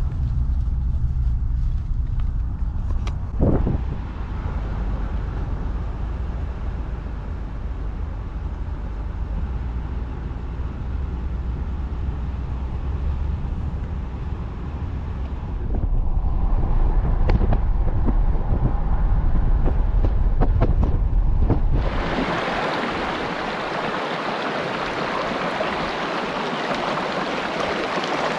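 Low, steady rumble of a vehicle driving, with a few knocks and a louder stretch near the middle. About 22 seconds in it cuts abruptly to the steady rush of a mountain river.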